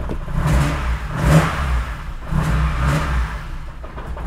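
Mercedes-Benz 190E 2.5-16V's four-cylinder 16-valve engine, just started from cold, idling unevenly with its revs rising and falling about once a second: the rough, hunting idle that makes the car stall.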